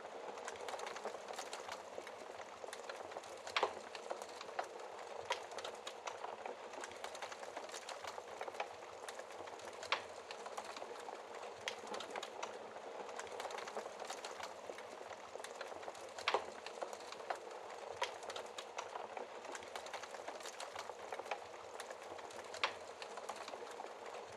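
Wood fire crackling in a fireplace: a steady hiss of flames with frequent irregular pops and snaps, a few louder ones scattered through.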